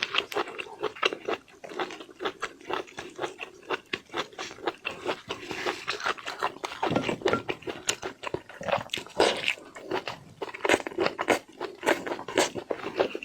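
Close-miked mouth sounds of someone eating seafood: wet chewing, crunching and lip smacks as a rapid, irregular run of clicks, with one fuller bite about seven seconds in.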